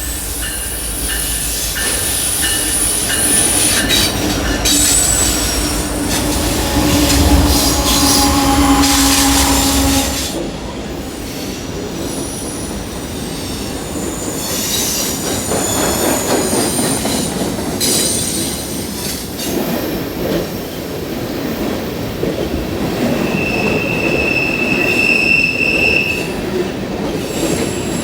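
Freight train passing, led by four diesel-electric locomotives (an EMD SD70M-2, GE ES44DC and ES44AC, and an EMD GP38-2). Their engines rumble by for about the first ten seconds. Then the freight cars roll past, with rail noise and high-pitched wheel squeal that comes and goes.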